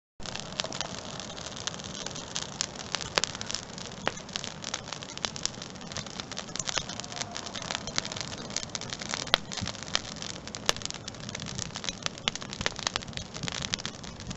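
Wood fire crackling, a dense run of small snaps with a few louder pops.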